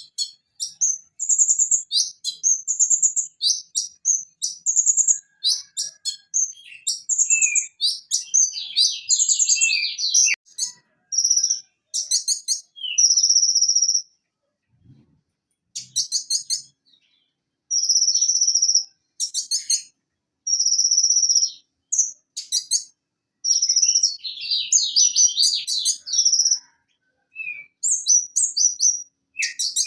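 Van Hasselt's sunbird (kolibri ninja) singing: rapid runs of high, thin chirps and short trills, with a break of a couple of seconds about halfway through.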